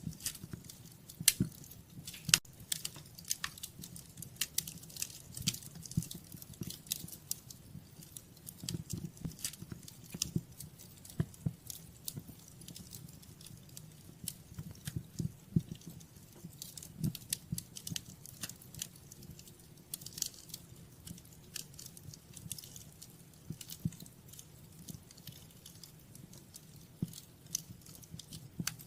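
Wood fire crackling in a fireplace: irregular sharp pops and snaps over a low, steady rumble of the flames, the two loudest pops coming a second or two in.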